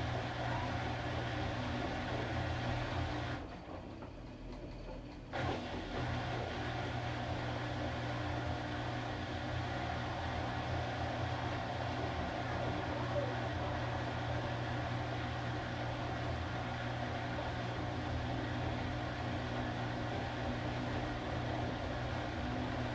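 Washing machine running with a steady motor hum; the motor cuts out about three and a half seconds in and starts up again about two seconds later.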